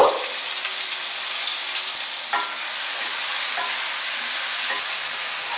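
Brinjal strips sizzling steadily as they fry in hot mustard oil over a medium flame in a kadai. A few light knocks come from a wooden spatula stirring them.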